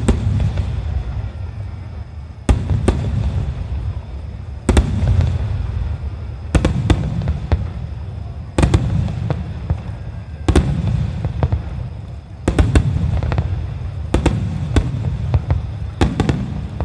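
Aerial firework shells of a starmine display bursting in a steady series, a loud bang about every two seconds. Each bang is followed by a deep rolling rumble and small crackles.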